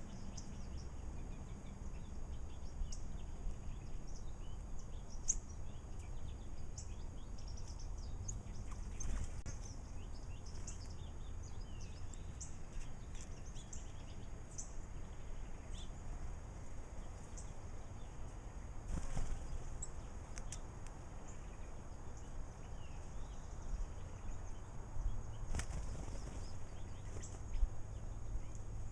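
Small birds bathing and fluttering their wings in a few short bouts. Scattered short high chirps are heard over a steady low background rumble.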